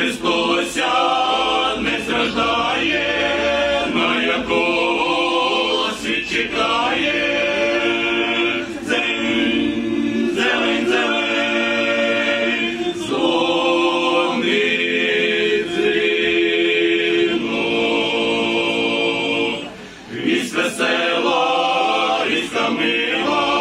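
A choir singing a Ukrainian Christmas carol (koliadka) in long held phrases, with a short break between phrases about 20 seconds in.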